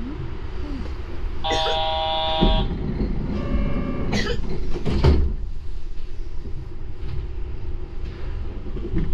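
Low, steady rumble of a Yurikamome rubber-tyred automated train. Two electronic chime tones, the first about one and a half seconds in and a weaker one about two seconds later, are followed by a couple of knocks.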